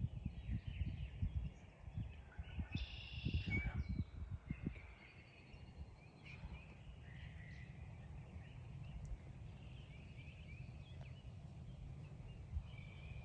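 Wild turkeys and other birds calling in the distance, with gobbling among the calls. Low thumps of wind or mic handling over the first few seconds give way to a steadier low rumble.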